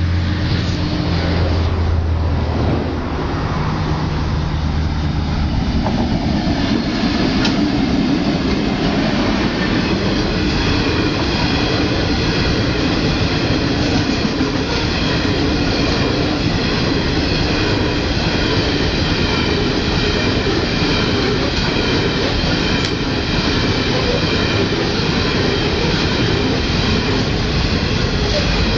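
Long coal train passing: a diesel locomotive's low engine hum in the first few seconds, then a long run of coal wagons rolling by with a steady rumble of wheels on rails and a high, steady squeal from the wheels.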